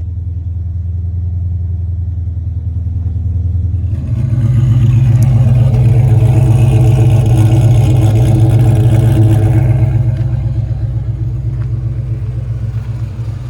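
Car engine running soon after starting: it idles, then about four seconds in rises to a higher, louder speed and holds there for about six seconds before settling back down.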